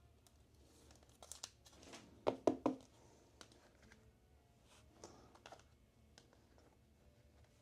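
Trading card packaging and cards being handled: faint plastic crinkling and tearing with a few quick clicks, the loudest cluster of snaps about two and a half seconds in.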